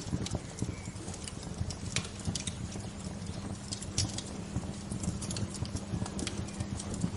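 Bonfire of burning wood crackling, with sharp, irregular pops over a steady low rumble.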